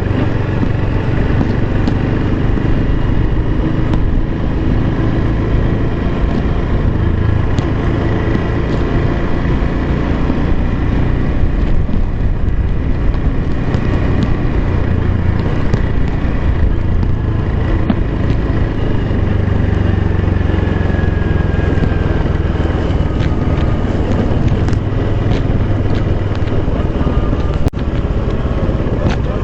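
Honda Super Cub 110's small single-cylinder four-stroke engine running steadily under way, with rumbling wind noise on the microphone.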